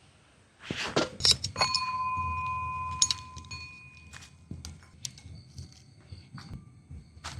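Metal objects clinking together, one struck piece ringing on with a clear metallic tone for about two seconds as it fades, followed by a few light clicks and knocks.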